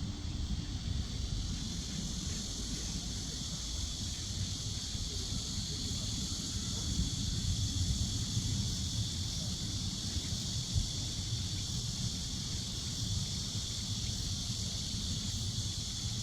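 Wind rumbling on the microphone, with a steady high-pitched hiss above it that grows a little stronger about a second and a half in.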